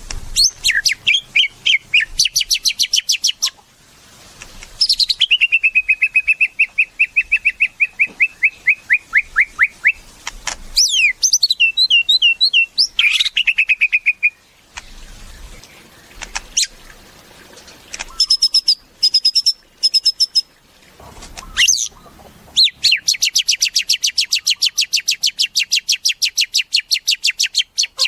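White-rumped shama (murai batu) singing: a varied run of phrases made of fast repeated notes and trills, some sliding down in pitch, with short pauses between phrases.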